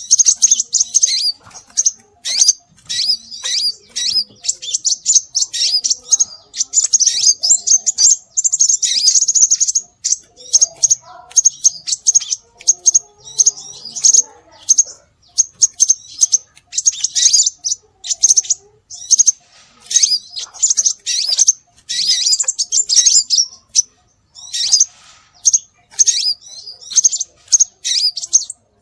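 Scarlet minivet calls used as a bird-luring recording: rapid high chirps in dense bursts of a second or two, with short gaps between.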